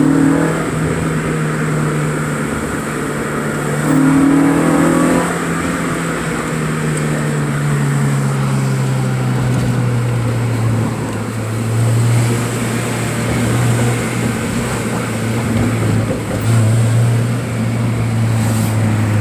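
Car engine running with a steady low exhaust drone that drops in pitch partway through, with a brief rev about four seconds in and a few small swells near the end.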